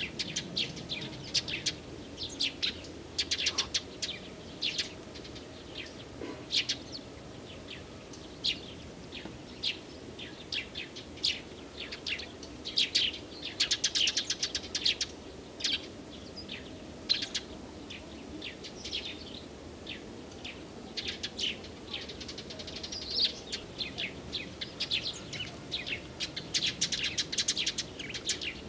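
Small songbirds chirping and singing: many short, high calls and quick trills, one after another, over a faint steady low background noise.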